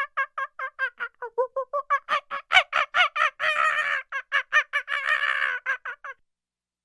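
A fowl-like bird calling in a long run of quick repeated notes, about six a second. The notes grow louder and harsher in the middle and stop abruptly about six seconds in.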